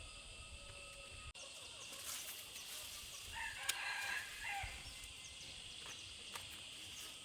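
A rooster crowing once, about halfway through, a call of roughly a second and a half.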